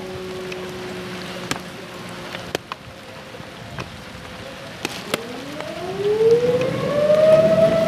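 Outdoor tornado warning siren: its tone sags and dies away in the first few seconds, then about five seconds in it winds back up, rising in pitch to a steady wail that is loudest near the end. A few sharp clicks sound over it.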